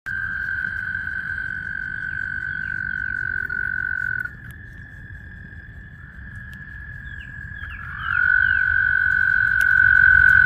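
Frogs in a vernal pond calling in long, steady, high trills. The trilling drops away about four seconds in and comes back louder about eight seconds in, with short chirps over it.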